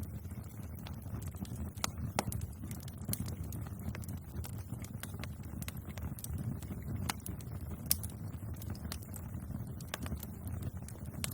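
Bonfire crackling: irregular sharp pops and snaps of burning wood over a low, steady rumble of the flames.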